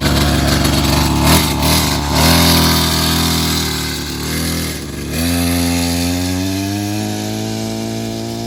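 Small two-stroke dirt bike engine running and revving, its pitch rising and falling a few times, then climbing steadily from about five seconds in and holding.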